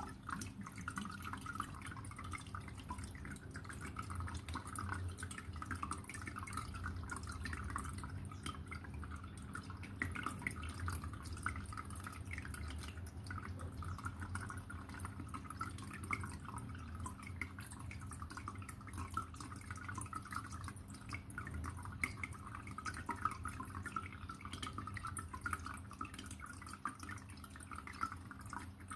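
Aquarium water trickling and dripping in a steady flow of small splashes, over a low steady hum.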